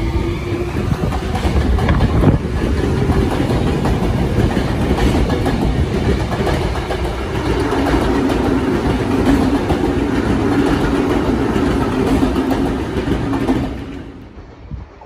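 Tokyo Metro Tozai Line electric train rolling past: steady rumble of wheels on rail and running gear, with a low humming tone that dips and rises partway through. The noise falls away sharply near the end.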